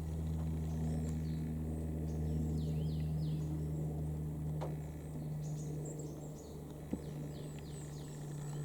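A steady low mechanical hum runs throughout, the loudest sound. Over it, birds give short, falling calls in runs of three or four, with thin high chirps, and there are two single ticks.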